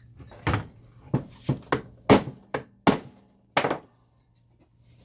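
Hammer blows on the bent metal chassis of a Leslie 122 amplifier: about nine sharp strikes at an uneven pace over three and a half seconds, some harder than others, then they stop.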